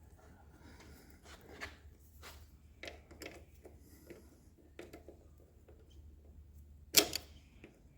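Small metallic clicks and scrapes of a screwdriver working a spring clip onto a motorcycle drive chain's master link, with one sharp click about seven seconds in as the clip goes on.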